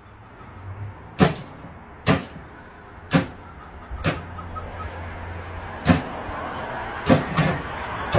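A series of sharp knocks, about one a second and unevenly spaced, over a steady low hum.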